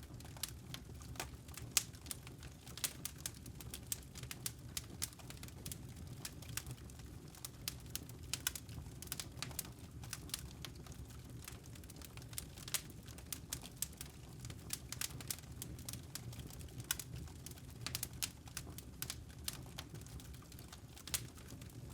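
Wood campfire crackling, with irregular sharp pops and snaps over a low, steady rumble of burning logs.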